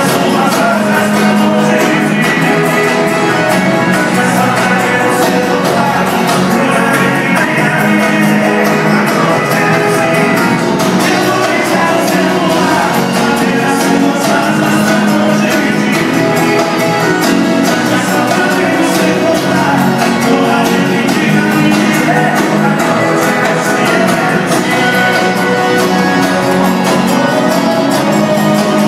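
A live sertanejo band plays amplified music with singing.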